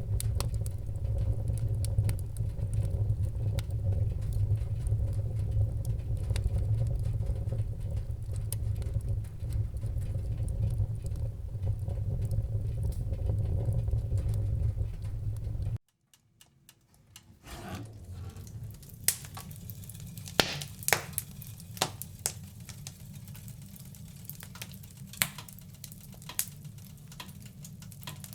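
Fireplace fire crackling: for the first half, a steady low rumble with faint crackles, which cuts off suddenly about 16 seconds in. After about a second and a half of near silence, sharp scattered crackles and pops sound over a soft hiss.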